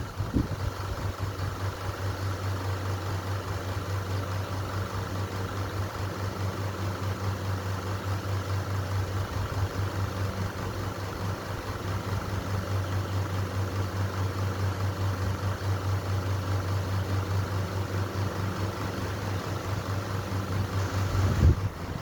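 A steady low machine hum, like a motor or engine running, with a short louder noise near the end.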